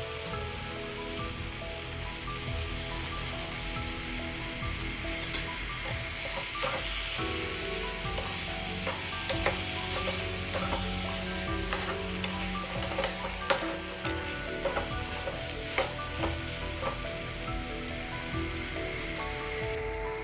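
Food sizzling as it fries in a pan, with a utensil stirring and knocking against the pan; the knocks and scrapes come thickest through the middle stretch.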